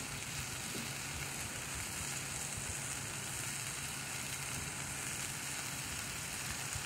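Burger patties and bacon sizzling on a Blackstone propane flat-top griddle, a steady hiss.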